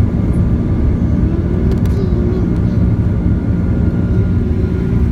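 Airliner's jet engines running during takeoff: a steady, loud low rumble with a constant hum over it.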